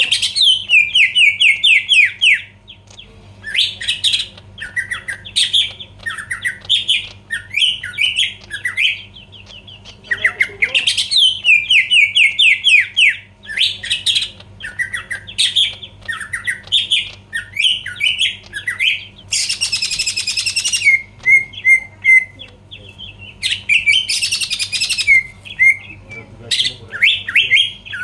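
Cucak ijo (green leafbird) singing in fast, varied chattering phrases with short pauses. Two harsh rasping bursts come about two-thirds of the way through.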